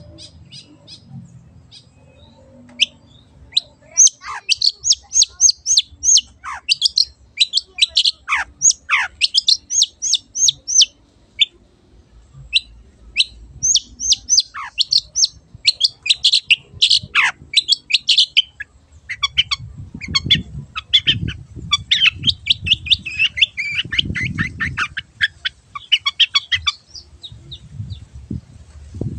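Long-tailed shrike (cendet) singing full and fast: a rapid, scratchy string of sharp chirps and trills with a few whistled notes sliding steeply down, in two long bursts with a brief pause between. A low rumble sits beneath the song in the later part.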